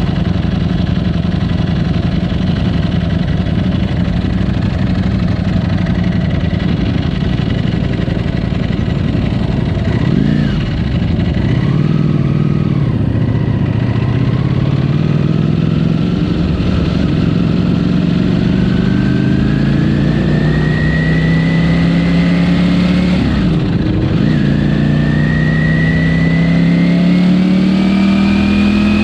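Ducati Panigale V4's engine through its stock exhaust while riding. It holds a steady pitch for about ten seconds, then climbs in revs under acceleration for a long stretch. The pitch drops sharply at a gear change about two-thirds of the way in, then rises again.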